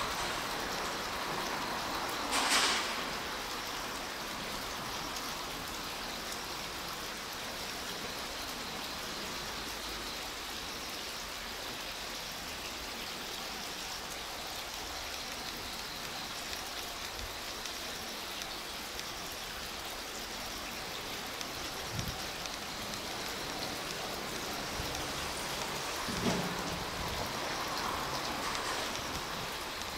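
A steady hiss of outdoor background noise, with a distant electric train rolling slowly through a rail yard. A short, sharp hiss comes about two and a half seconds in, and a weaker knock-like sound near the end.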